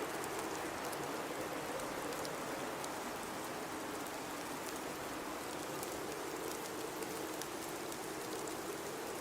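Blizzard wind blowing steadily, with a faint wavering whistle in the wind and scattered small ticks.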